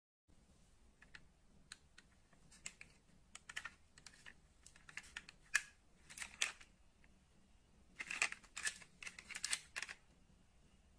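Die-cast metal model cars being handled on a hard surface: irregular light clicks and small clattering taps, coming in clusters.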